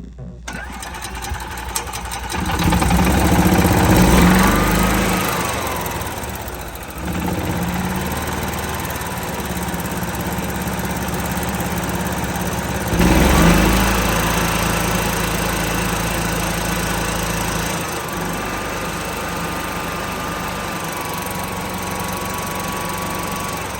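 EZGO golf cart's Kawasaki EFI gas engine cranked by the starter and catching within the first few seconds. It is revved up twice, each time rising and then falling back, then settles to a lower steady run. The revs go as high as about 3,360 RPM, enough to set off a 2 code, a throttle position sensor out of adjustment, on the check engine light.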